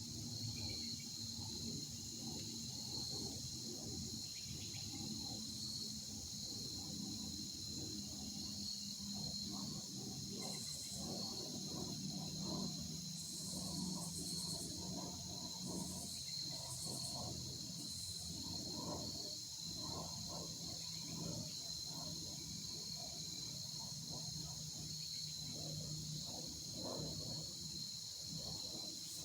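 Steady high-pitched insect chorus trilling throughout, with a few short higher buzzes near the middle and faint, uneven low noise underneath.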